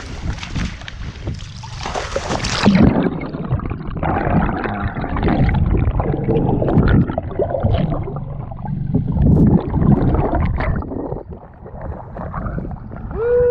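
Water gurgling and sloshing as heard through a camera's housing dipped into the sea, turning muffled about three seconds in when it goes underwater.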